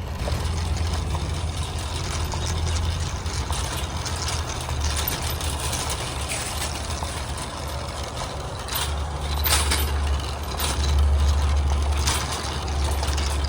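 Car driving, heard from inside the cabin: a steady low rumble of engine and road noise, with a few brief clicks about nine to ten seconds in.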